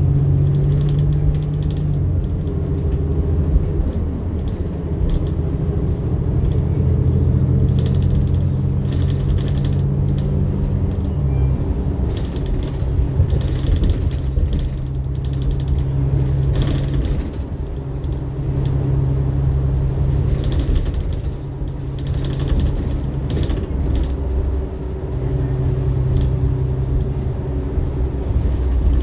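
Inside a 2015 New Flyer XN60 articulated bus under way: the Cummins Westport ISL-G natural-gas engine and Allison B500R transmission drone, the pitch shifting several times, while the interior rattles and creaks with scattered sharp clicks.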